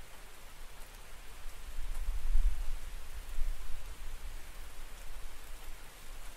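Steady rain falling, with a deep rumble of distant thunder that swells about two seconds in and slowly fades.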